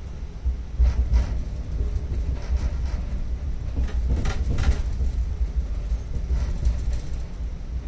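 Moving passenger train heard from inside the carriage: a steady low rumble, with short bursts of clatter about a second in, around four to five seconds, and again near seven seconds.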